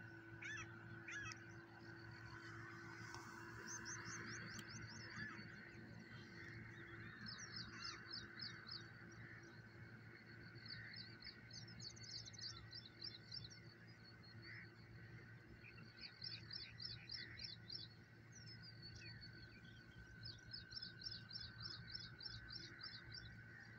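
Faint birdsong over a quiet lakeshore: a small bird repeats quick high trilled phrases every few seconds, over a soft steady background hum.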